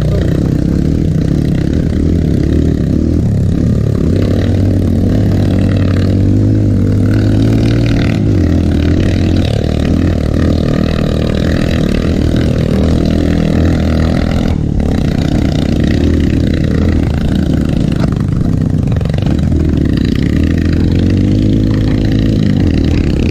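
Trail motorcycle engine running steadily as the bike is ridden along a dirt trail, its revs shifting now and then with the throttle.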